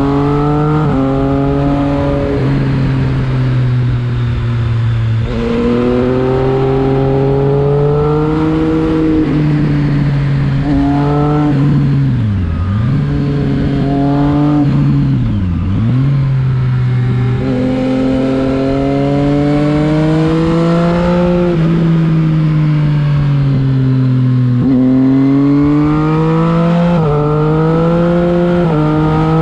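Triumph Street Triple 675 RX's inline three-cylinder engine running under way, its pitch climbing under throttle and stepping down at several gear changes. Around the middle it dips sharply twice and climbs back each time.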